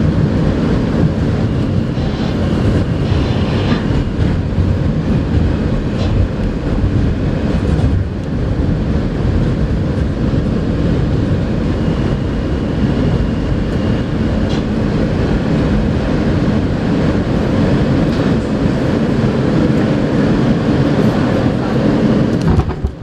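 R160A subway car running on the track, heard from inside the car: a steady, loud rumble of wheels on rail and running gear, with some clickety-clack over rail joints.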